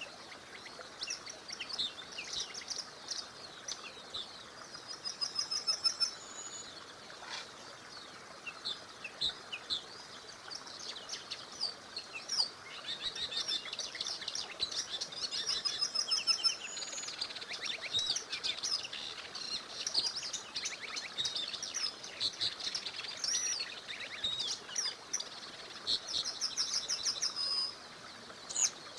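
Several songbirds singing, overlapping chirps and rapid trills, over a faint steady hiss.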